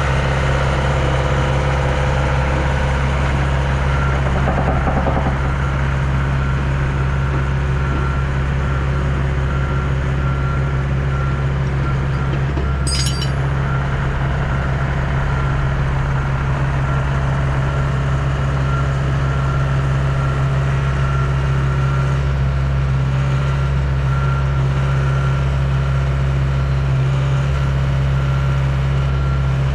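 Heavy diesel engine idling steadily, with an evenly repeating backup-alarm beep over it. A single sharp metallic clink about thirteen seconds in.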